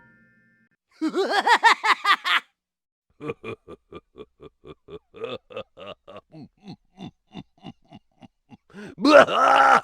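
Cartoon villain laugh sound effects: a short evil laugh, then a long sinister laugh in short staccato "ha" beats at about four a second. A louder laugh breaks in near the end.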